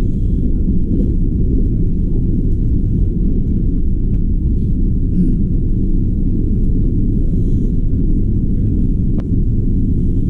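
Steady low rumble of a limited express train running along the track, heard from inside the train.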